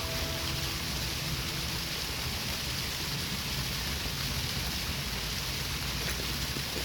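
Steady rush of running water from a stream, an even hiss with no breaks. Background music fades out in the first second.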